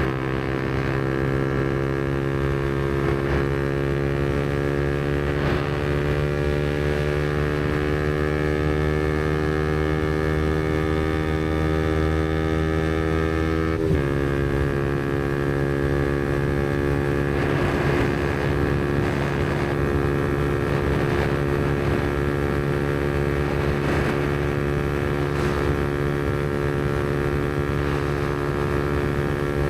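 Yamaha MT-125's single-cylinder four-stroke engine through a Black Widow aftermarket exhaust, on the move. The engine pitch climbs slowly for about fourteen seconds, drops abruptly at a gear change, then holds fairly steady at cruise.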